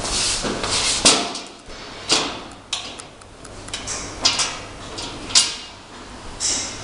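Muffle furnace side cover being unbolted and opened: a series of short scrapes and knocks, with a sharp knock about a second in.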